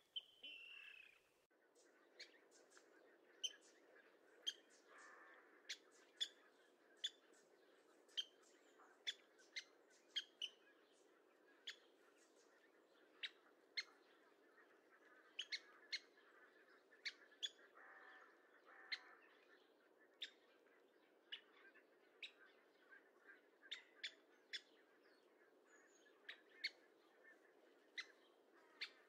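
Faint bird calls: short, sharp ticking notes repeated roughly once a second, over a steady low background hum, with a brief falling call at the very start.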